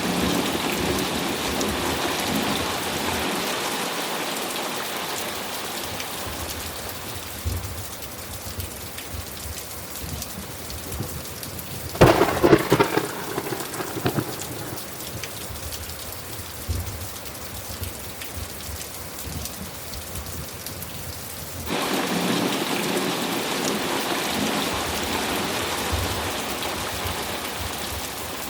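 Steady heavy rain with a thunderclap: one sharp crack about twelve seconds in, the loudest sound, rumbling briefly after. The storm noise also swells suddenly at the start and again past the two-thirds mark, easing off over several seconds each time.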